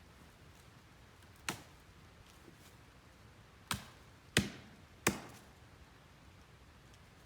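Wood being chopped: four sharp strikes, the last three in quick succession, each with a short ringing tail.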